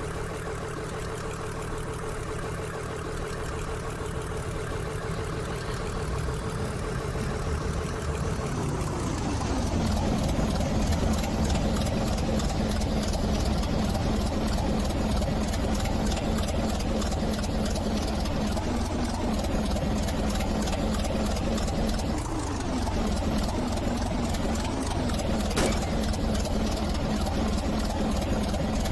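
A train running, with a steady engine or motor tone over rumble. About nine seconds in, the tone slides down in pitch while the running noise grows louder, then holds steady.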